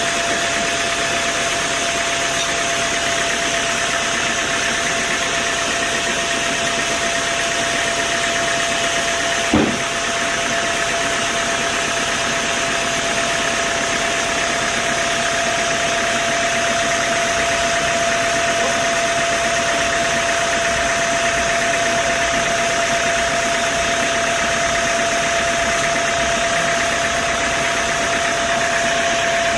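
Sawmill machinery running steadily with a constant whine over a dense mechanical noise, and one sharp knock about a third of the way in.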